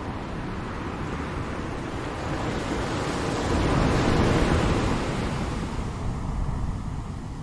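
Ocean surf: a wave swells up, breaks about four seconds in and washes back out, with a steady hiss of surf underneath.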